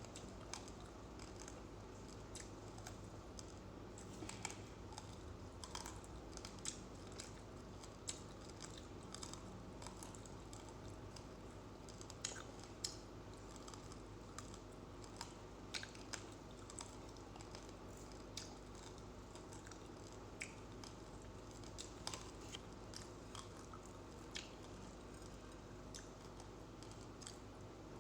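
Close-up chewing of uncooked rice grains, with small irregular crunches and clicks scattered throughout.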